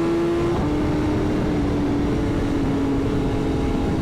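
Sport motorcycle engine running at highway cruising speed under heavy wind noise. Its pitch steps down once about half a second in and then eases slowly lower.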